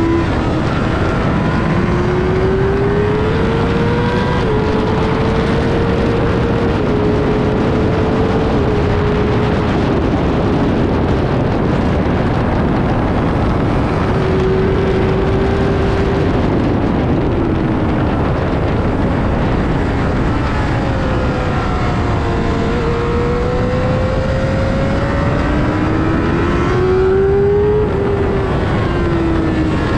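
Sportbike engine heard from on board at track speed, its pitch climbing under acceleration and dropping back in quick steps as it shifts up through the gears, easing off and climbing again several times. A loud, steady wind rush runs under it.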